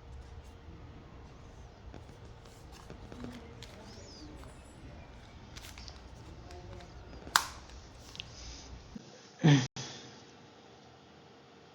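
Faint handling noises as small repair-kit items are picked up and moved: scattered light clicks and taps, a sharper click about seven seconds in and a louder short thump about two seconds later.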